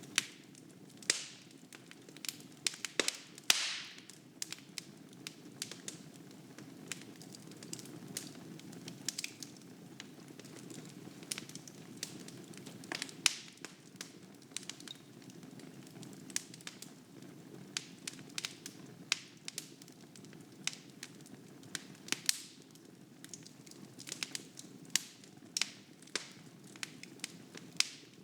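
Wood fire crackling in a fireplace: irregular sharp pops and snaps over a steady low rumble of the flames, with a longer, louder crackle about three and a half seconds in.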